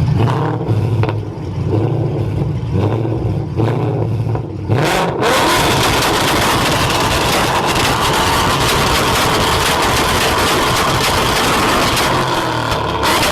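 Car engine revving in short blips with popping from the exhaust, typical of an anti-lag or backfiring tune. About five seconds in it gives way to a louder, sustained run of engine noise thick with rapid crackles.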